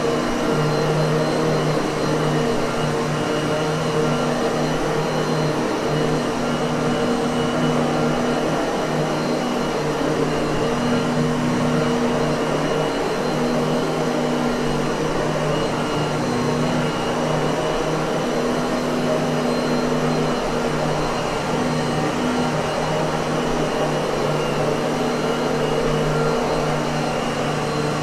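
Miele vacuum cleaner running steadily: an even motor hum over the rush of air, with no change in speed.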